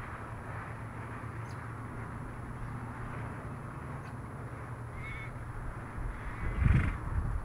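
Outdoor ambience with a bird calling briefly twice, a short pitched call each time, over a steady background hiss. Low rumbling thuds come in near the end and are the loudest part.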